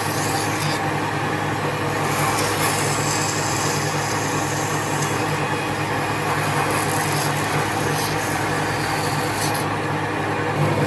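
An electric power tool runs steadily with a motor hum under a rough rubbing sound, as of sanding or grinding wood.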